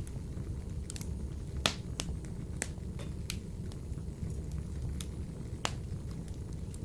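Wood fire burning in a wood-burning stove, with sharp irregular crackles and pops over a steady low rumble; the loudest pop comes about one and a half seconds in.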